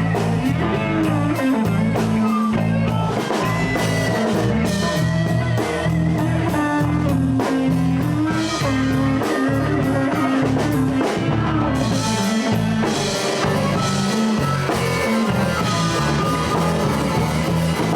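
Live blues band playing an instrumental passage: electric guitar over bass and drum kit.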